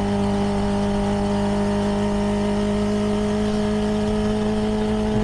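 CFMoto 300NK's single-cylinder engine through its stock exhaust, running at a steady, unchanging pitch while cruising, with road and wind rumble underneath.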